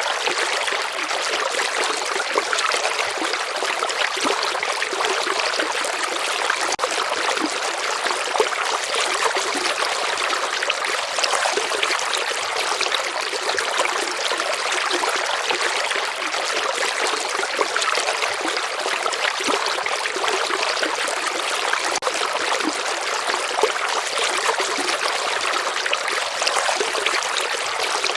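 A gently flowing river: a steady, even wash of running and trickling water, with no deep rumble and no breaks.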